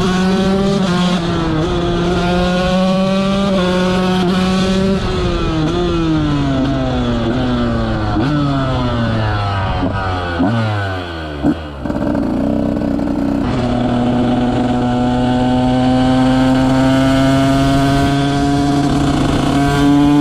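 A 125 cc two-stroke motocross bike's engine under way: it revs up through a few quick gear changes, then the engine speed falls away steadily for several seconds as the bike slows. After a brief dip it runs at a steady, slowly rising pitch.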